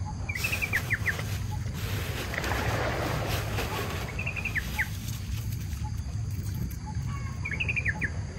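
A bird singing the same short phrase of quick chirps three times, about four seconds apart, over a soft rustle of foam beads being stirred by hand in a plastic tub.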